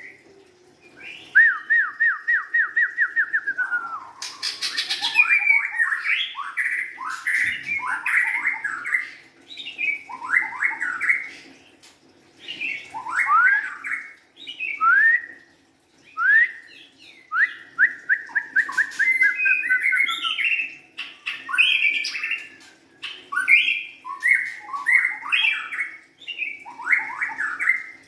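White-rumped shama (murai batu) singing: varied phrases of quick rising and falling whistled notes, with a fast even trill twice, broken by short pauses.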